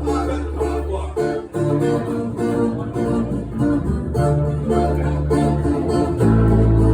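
Live acoustic band music, led by a strummed acoustic guitar over deep bass notes. The bass drops out about a second in and comes back near the end.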